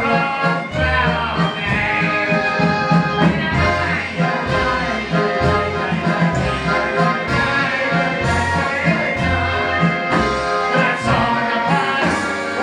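Live klezmer band playing an instrumental passage, accordion-led over a steady pulsing bass line.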